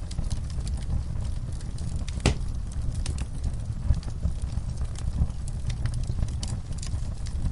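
Wood fire burning in a fireplace: a steady low rumble of flames with frequent small crackles and pops, one sharper pop about two seconds in.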